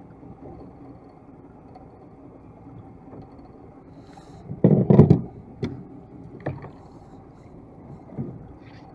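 Knocks and bumps on a small fishing boat over a steady low rumble, the loudest cluster about halfway through, with single knocks after it.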